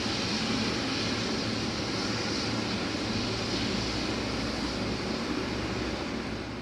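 Steady jet aircraft noise on an airport apron, a constant hum with a hiss over it, starting to fade out near the end.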